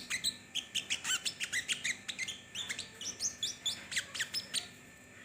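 A small songbird, a sogon, singing a rapid, energetic run of short, high chirping and sweeping notes that stops shortly before the end.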